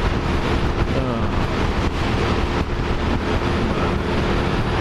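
Heavy wind rushing over the microphone of a Suzuki DR single-cylinder motorcycle riding at speed, with the engine's steady tone underneath.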